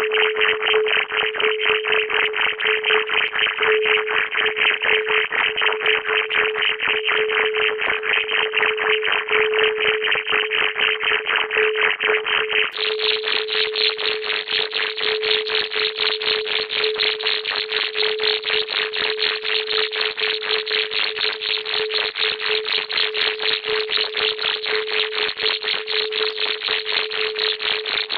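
Electronic tone music: a steady tone just below 500 Hz under a fast, regular pulsing hiss, with no speech.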